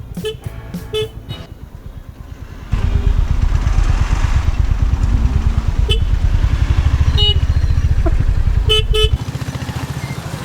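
Royal Enfield Hunter 350's single-cylinder engine pulling hard, with a loud, fast low pulsing that starts suddenly about a third of the way in and eases off near the end. Short vehicle-horn beeps sound three times over it, the last one a double toot.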